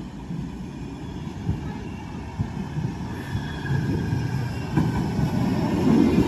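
Manchester Metrolink tram approaching on its rails: a low rumble that grows steadily louder, with a faint whine above it.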